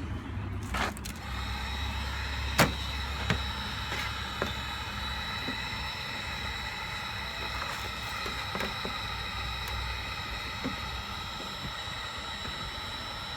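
Electric heat gun running with a steady whine as it warms a plastic bumper cover to make it pliable. A few sharp light knocks come in the first few seconds.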